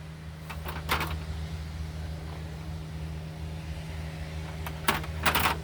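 Short clicks and scrapes of hand work on a chainsaw's fuel system, one cluster about a second in and a louder one near the end, over a steady electrical hum.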